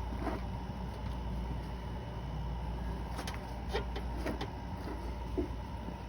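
A few light clicks and taps from small engine parts being handled and set in place, over a steady low hum.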